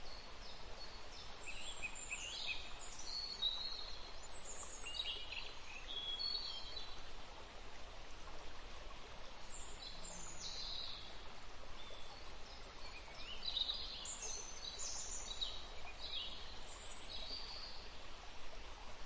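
Birds chirping in short, high, mostly falling phrases that come in clusters every few seconds, over a steady faint hiss.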